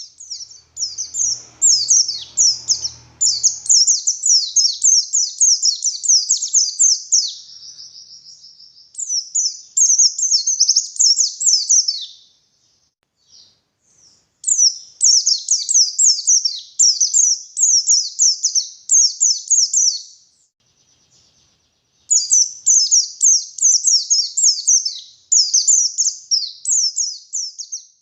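White-eye (pleci) singing a rapid, high twittering song of quick down-slurred notes, in three long bursts with two short breaks.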